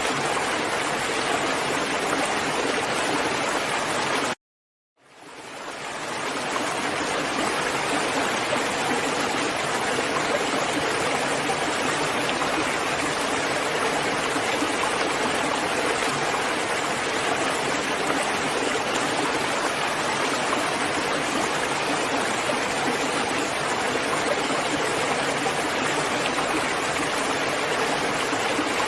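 Steady, dense rain, an even rushing hiss. About four seconds in it cuts out completely for half a second, then fades back up to the same level.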